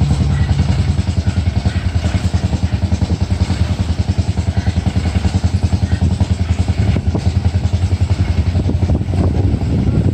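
Truck engine running steadily, a rapid low pulsing.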